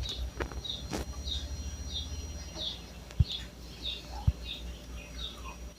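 A bird chirping repeatedly, about two short falling chirps a second, with a few faint knocks underneath.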